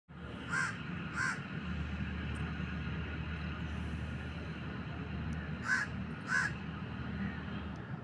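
Short, harsh bird calls in two pairs, the calls in each pair a little over half a second apart, over a steady low background hum.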